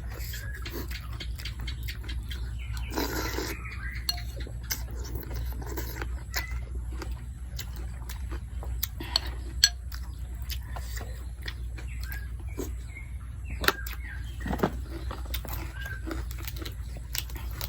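Someone eating noodle soup: scattered small clicks of a spoon or chopsticks against a bowl, with slurps and chewing and a longer slurp about three seconds in, over a steady low hum.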